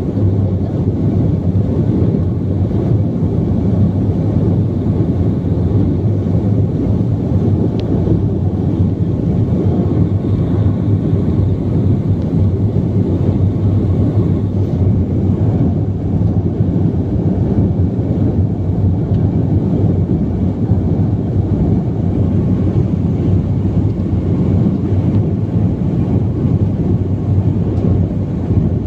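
Steady cabin noise inside a BAe 146 jetliner on descent: the airflow and the drone of its four turbofan engines, a loud, even, low drone with a steady hum underneath.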